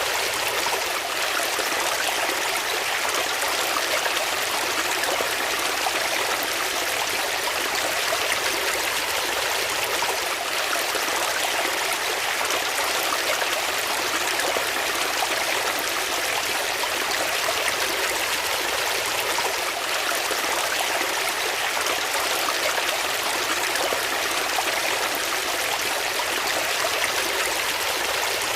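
Flowing water: a steady, even rush of a stream with a light trickling over it.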